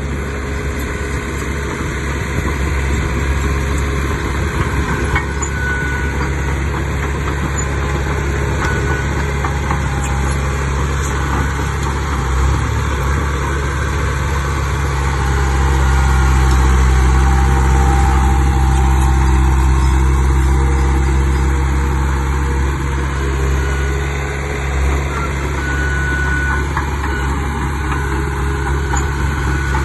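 Heavy earthmoving machine's diesel engine running steadily, growing louder for several seconds past the middle, then settling back.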